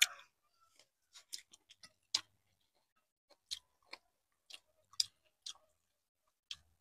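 Faint, irregular clicks of someone eating and chewing close to the microphone, roughly one every half second to a second.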